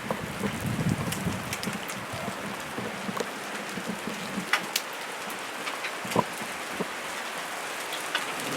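Heavy rain falling steadily, with scattered sharp ticks of drops striking close by and a few louder single hits. A low rumble fades out in the first two seconds.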